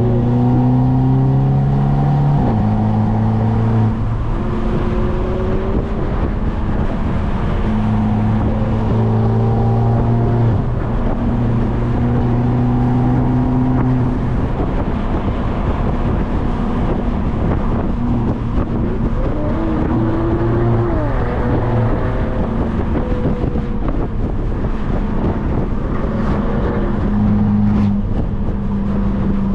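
Turbocharged Mercedes-Benz C250 with a straight-piped exhaust, droning loudly while cruising. Its pitch holds steady for a few seconds at a time, then steps up or down as speed and gears change.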